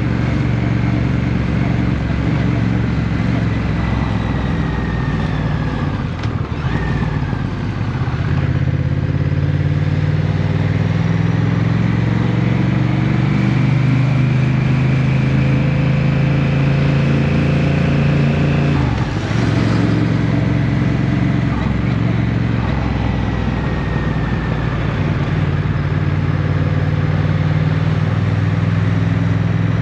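Motorcycle engine running under way, its pitch climbing slowly as it accelerates and then dropping suddenly at a gear change about two-thirds of the way through, before holding steady.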